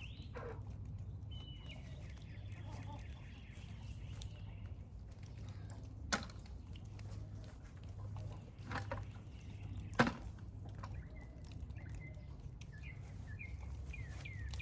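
Faint bird chirps and calls over a low steady rumble, with a few sharp clicks about six and ten seconds in.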